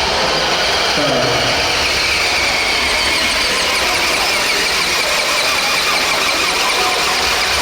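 Radio-controlled pulling truck or tractor running at full power, a steady, loud, high-pitched whine.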